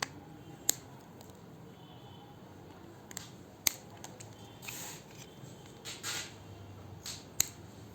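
Plastic locking tabs on a modular switch being cut off with a hand cutting tool: several sharp snipping clicks with a few short scrapes between them. The tabs are being trimmed because they jam the switch in the plate.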